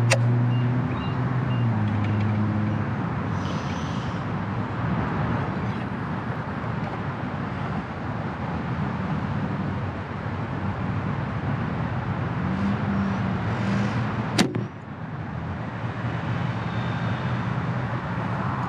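Steady traffic noise with a vehicle engine humming past near the start. About fourteen seconds in comes a single sharp snap, a PSE compound bow being shot.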